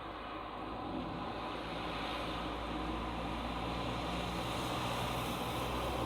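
Road traffic on a highway: a vehicle approaching, its engine hum and tyre noise growing louder.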